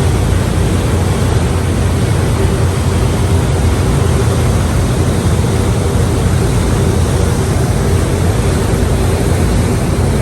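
Thames cruise boat's engine running steadily, with a loud, even hiss over it.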